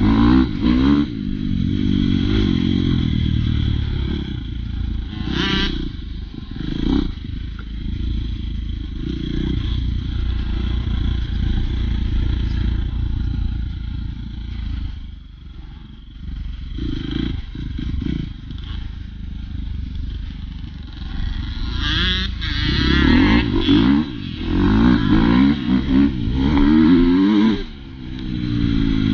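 Dirt bike engine revving up and down while riding. It eases off to a lower, quieter run in the middle, then revs hard with quick rising and falling pitch near the end.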